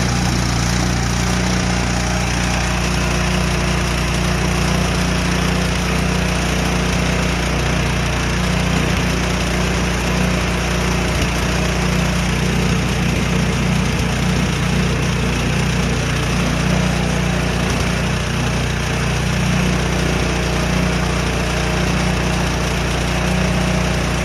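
Yard Machines snowblower's Powermore 179cc single-cylinder four-stroke engine running steadily at an even speed.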